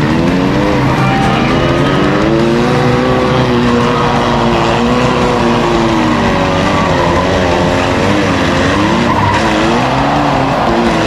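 Compact demolition derby cars' engines revving up and down, with tires squealing and skidding.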